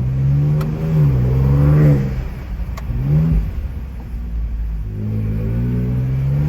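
Ford Ranger Raptor's twin-turbo V6 accelerating under load, heard through open windows: the revs climb, drop sharply about two seconds in, flare briefly, then climb again near the end.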